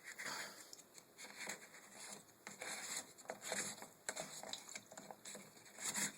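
Water pattering and splashing out of a Kenmore HE2 front-loading washer's drain pump filter housing as the filter is turned loose, irregular and uneven.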